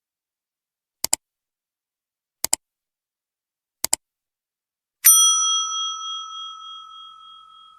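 Three quick double clicks about a second and a half apart, then a single bright bell ding about five seconds in that rings on and slowly fades, sound effects laid over a silent end screen.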